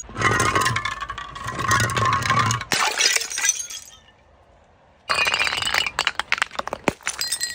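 Glass being crushed and broken: dense crunching, crackling and clinking of glass for about four seconds, a brief pause, then another run of crunching glass from about five seconds in.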